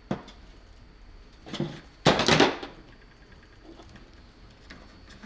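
Hand tool and wire handling noises while crimping a wire connector: a sharp click near the start, a brief rustle, then a louder half-second clatter about two seconds in.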